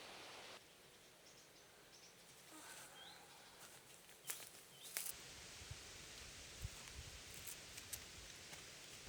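Quiet forest ambience with a few faint, short bird chirps and two sharp clicks about four and five seconds in.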